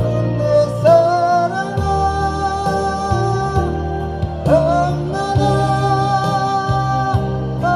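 A song with guitar accompaniment: a singer holds long notes, sliding up into a new one about a second in and again just past the middle.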